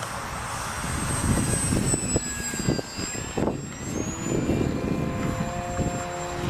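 VisionAire RC model airplane in flight, its motor and propeller making a thin high whine that drifts down and then back up in pitch. Wind buffets the microphone in low, gusty rumbles throughout.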